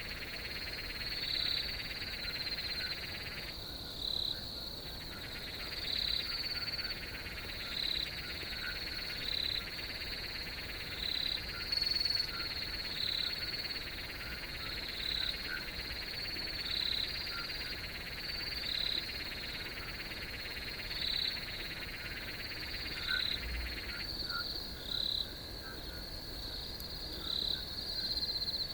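Chorus of crickets, a steady high trilling with a brighter chirp every second or two. A second, lower trill drops out briefly about four seconds in and stops about two-thirds of the way through.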